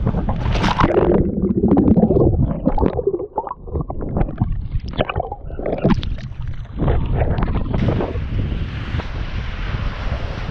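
Water splashing and sloshing around a sea kayak at irregular moments, with wind buffeting the microphone. From about eight seconds in it settles into a steady rushing hiss of wind and surf.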